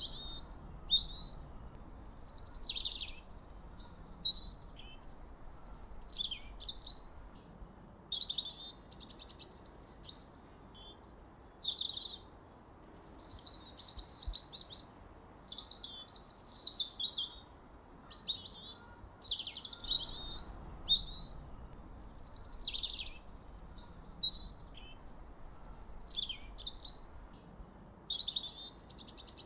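Birds singing and chirping, a busy run of short trilled phrases and high sweeping notes one after another, over a faint steady background hiss.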